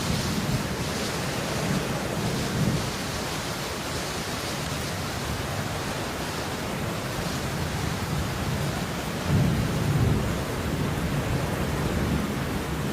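Steady heavy rain falling, with low rumbles swelling up at the start and again, louder, about three quarters of the way through.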